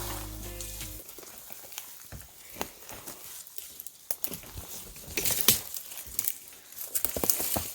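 Footsteps crunching through dry leaves and brush: irregular crackling steps, with louder clusters about five seconds in and again near the end.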